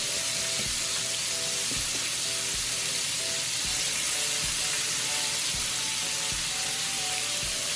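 Chicken pieces frying in a skillet: a steady, dense sizzle. Soft background music with a regular beat plays under it.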